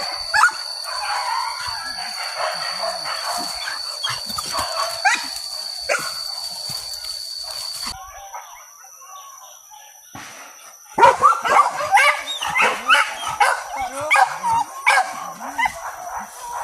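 Pack of hunting dogs yelping, whining and barking excitedly in many short, overlapping calls. The calls die down for a few seconds in the middle, then return louder about eleven seconds in. A steady high-pitched whine sounds through the first half.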